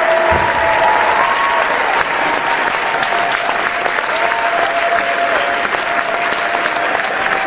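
A large crowd applauding steadily, a dense wash of many hands clapping, with a few long held tones, like cheering calls, sounding above it.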